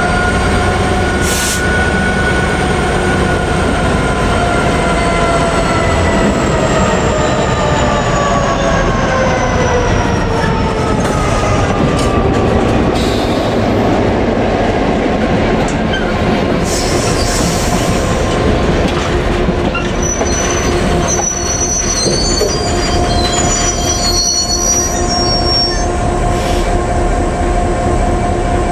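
DB Cargo Class 66 diesel locomotive 66014, its two-stroke V12 engine running as it passes, the engine's pitched drone falling over the first ten seconds or so. Its train of box and ballast wagons then rolls by with occasional knocks and brief high-pitched wheel squeals in the second half.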